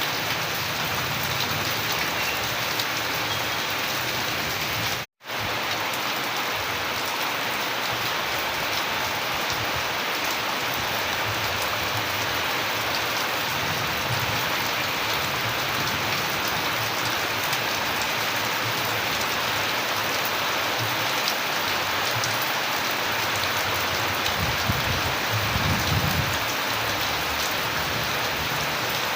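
Steady rain falling, a dense, even hiss of drops, with a momentary cut to silence about five seconds in and a low rumble swelling near the end.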